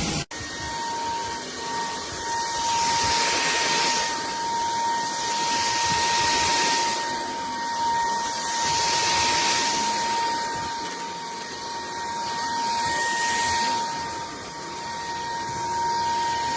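JELLYPIG cordless stick vacuum cleaner running: a steady high motor whine under a rushing airflow hiss that swells and fades every few seconds. The sound briefly cuts out just after the start.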